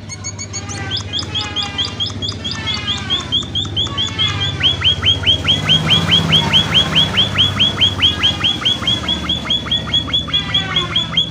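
Emprit finch (munia) calling: a long, rapid run of short, downward-sliding chirps that settles into an even string of about six a second, the kind of busy calling used to lure other emprit into answering.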